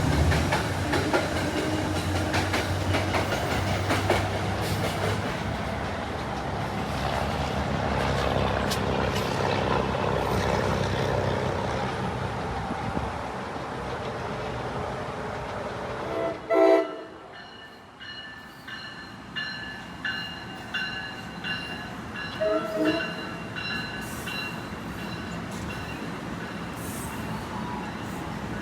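A train running past on the Northeast Corridor, with steady rumble and clickety-clack of the wheels, fading after the first half; a short, loud horn blast sounds about two-thirds of the way through.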